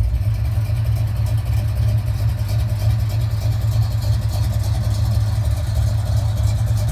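1979 Corvette's new 454 big-block V8 idling with a steady low rumble.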